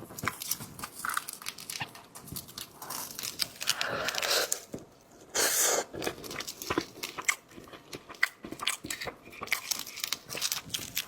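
Close-miked eating: seafood being bitten, crunched and chewed in irregular bursts with sharp wet clicks, the loudest a short crunching burst about halfway through.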